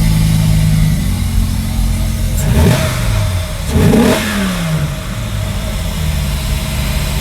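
A truck engine idling, then revved up twice in quick succession before dropping back to idle.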